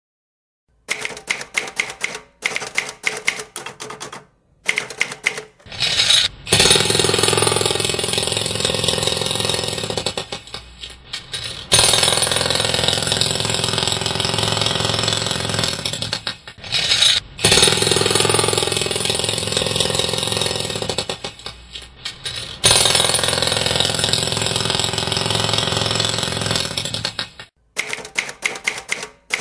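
Quick clacking like typewriter keys, then four long stretches of loud mechanical rattling with a low hum, each about four to five seconds with short breaks between. The clacking returns near the end.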